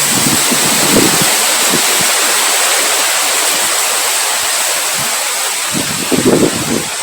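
Rain falling with a steady hiss, with low rumbling gusts of wind near the start and again from about six seconds in.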